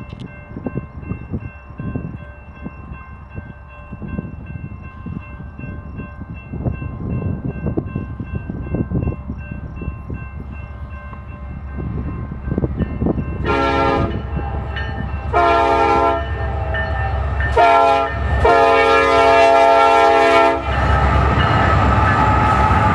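Union Pacific intermodal stack train approaching behind diesel locomotives, its rumble slowly growing louder. Over halfway through, the lead locomotive's air horn sounds the grade-crossing signal: two long blasts, a short one and a long one. Then the locomotives pass loudly.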